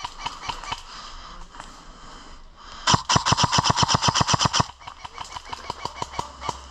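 Airsoft electric gun firing on full auto: a long rapid burst of about a dozen shots a second a few seconds in, followed by fainter, more spaced shots.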